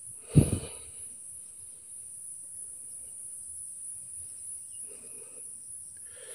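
Steady high-pitched chorus of insects in the surrounding vegetation, with one loud dull thump about half a second in.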